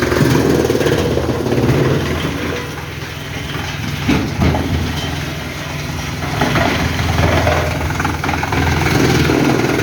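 Heavy engine running steadily, with a short knock about four seconds in.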